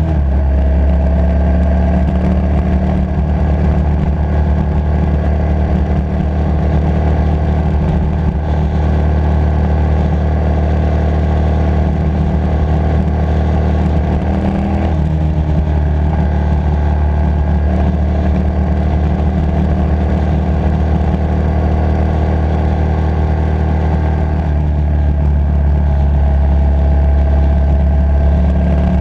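Motorcycle engine running under way, raw on the helmet or bike camera. Its pitch steps and climbs again with gear changes near the start and about halfway through, with another change in the engine note a few seconds before the end.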